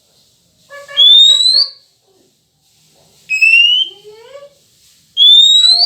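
Three loud rising whistles, each well under a second long, with short gaps between: a whistled lure call (siulan pancingan) used to provoke a male Oriental magpie-robin into singing.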